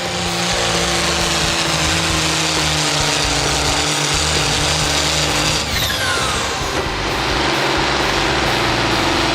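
Pulling tractor's engine running hard under load, its note sagging slightly. A high whine falls away about six seconds in, and the engine note changes about a second later.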